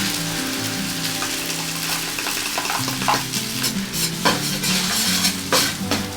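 Food sizzling as it is fried in a hot pan or on a griddle, stirred with a few sharp scraping strokes in the second half, over background music.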